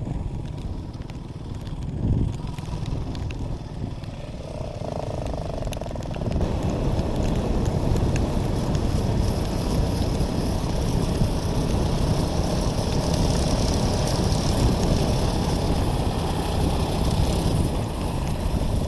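Dirt bike riding along, engine running under way with a rush of wind noise; it gets louder about six seconds in.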